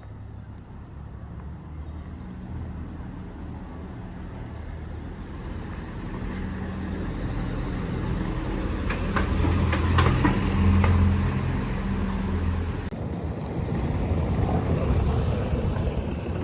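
A motor vehicle's engine running close by: a low drone that grows louder over about ten seconds, is loudest about two-thirds in, dips briefly, then builds again. A few sharp clicks sound near the middle.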